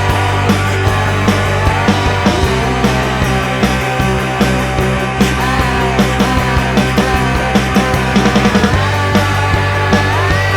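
Rock band music with a grungy sound: drums, bass and guitar lines that slide in pitch. A quick drum fill comes about eight seconds in, and the bass line shifts shortly after.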